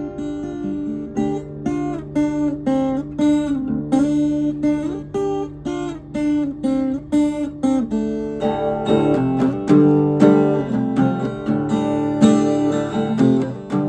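Acoustic guitar music, plucked notes, becoming fuller and busier about eight seconds in.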